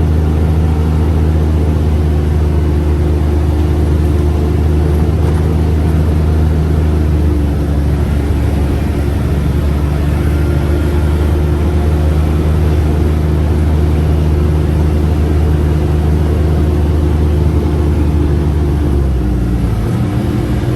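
UTV engine running steadily while the vehicle is driven, its pitch stepping down near the end as it eases off.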